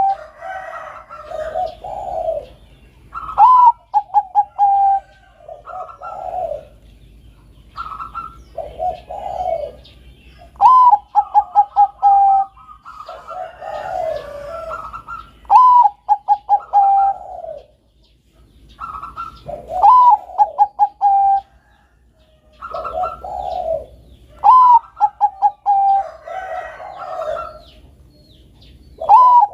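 Bangkok-type zebra dove (perkutut) cooing its song over and over, about every three to four seconds: each phrase opens with a rising note, runs into a quick string of short notes, holds a tone, and ends in lower coos.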